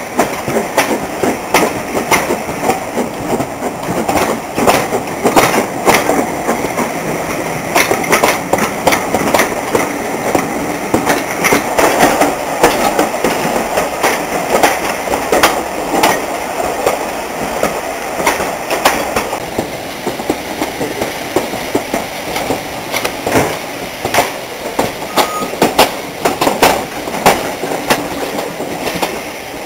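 Steam-hauled train running on the track, a dense run of clicks and knocks from the wheels and rolling stock, with a few sharper knocks in the last third.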